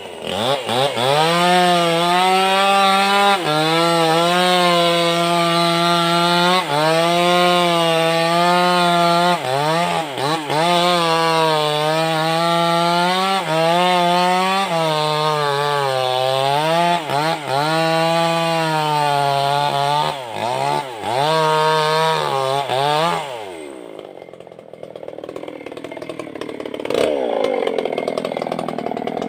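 Maestro chainsaw with a Stihl chain running at high revs while cutting wood, its pitch sagging and recovering again and again as the chain bites. About 23 seconds in the engine note drops away to a lower, quieter, rougher sound, then picks up again near the end.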